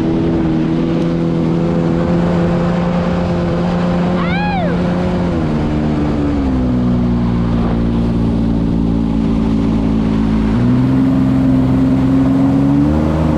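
Quad's engine running at a steady speed, its pitch dropping about halfway through and stepping back up a few seconds later as the revs change. A short rising-and-falling whistle cuts in briefly near the middle.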